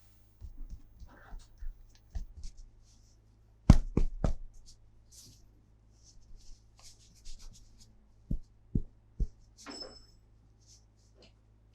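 Scattered clicks and knocks of a plastic toy and its packaging being handled, with three sharper knocks close together about four seconds in and three more a little past the eight-second mark.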